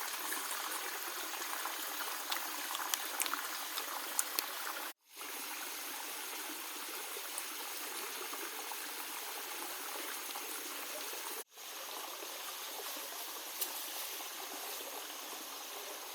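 Steady rush of running water, with a few light clicks in the first few seconds; the sound cuts out abruptly twice, about five seconds and about eleven and a half seconds in.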